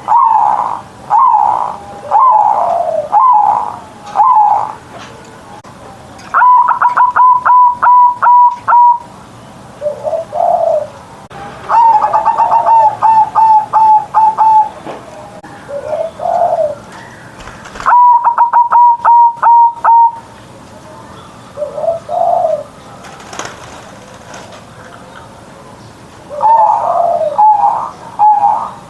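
Zebra dove cooing in bouts of quick staccato notes, each bout lasting two to four seconds. The bouts are separated by pauses of a few seconds, with an occasional single lower coo in between.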